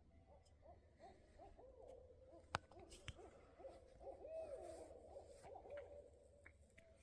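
Owls calling, a faint, continuous run of short, overlapping hoots that bend up and down in pitch, like hungry monkeys. A single sharp click comes about two and a half seconds in.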